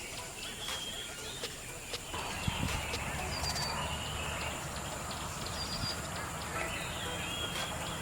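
Birds chirping in short, repeated calls over outdoor background noise, with a low rumble coming in about two seconds in.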